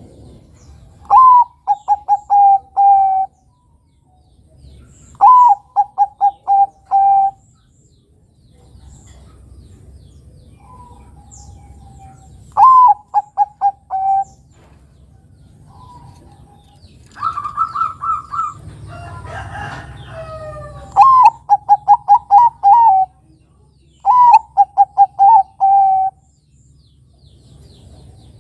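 Bangkok-type zebra dove (perkutut) cooing in loud repeated phrases, five in all. Each phrase is a sharp higher opening note followed by a quick run of short notes and a longer closing note, a few seconds apart. About two-thirds of the way through comes a different, higher and rougher call.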